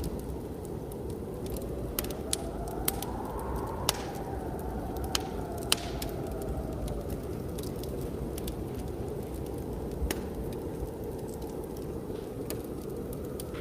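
Wood fire crackling with scattered sharp pops over a steady blizzard wind roar; a howling gust rises in pitch and falls away again over the first several seconds.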